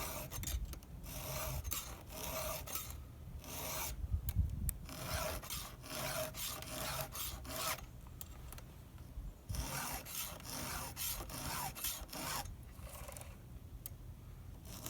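Repeated rasping, scraping strokes of a hand tool on wood, roughly one stroke a second, typical of rotten wood being scraped or cut away from a log.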